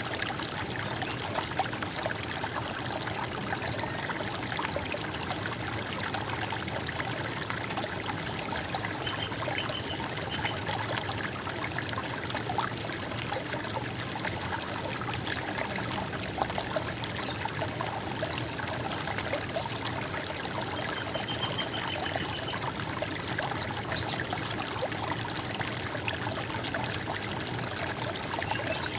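Running stream water, a steady gurgle and trickle. Twice, at about ten and about twenty-one seconds in, a bird gives a brief high trill of quick repeated notes.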